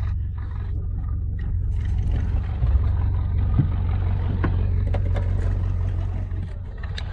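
Boat engine running steadily under way, a low drone with water and wind noise over it and a few light knocks.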